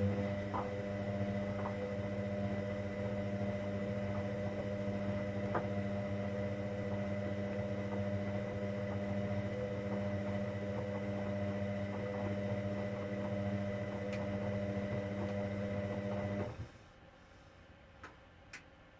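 Hoover Dynamic Next washing machine giving off a steady electrical hum early in its cotton 60 programme, which cuts off suddenly after about sixteen seconds. Two faint clicks follow near the end.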